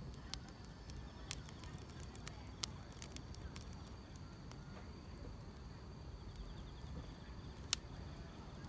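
Wood fire crackling, with scattered sharp pops over a low steady rumble; the loudest pop comes near the end. A faint, steady high trill of grass insects runs underneath.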